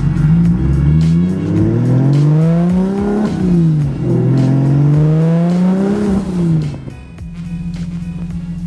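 Inline-six of a single-turbo BMW 135i on open downpipe, with no exhaust, revving up twice, its pitch climbing for a couple of seconds and then falling back each time, then settling to a steady idle near the end.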